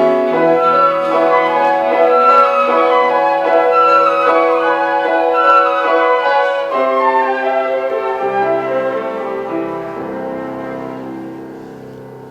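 Flute, cello and piano trio playing contemporary chamber music: a flute melody over held cello and piano notes, growing steadily quieter over the last five seconds or so.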